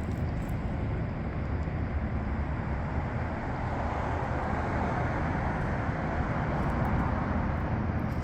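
Steady traffic rumble from vehicles on nearby streets, swelling for a couple of seconds midway as a vehicle passes.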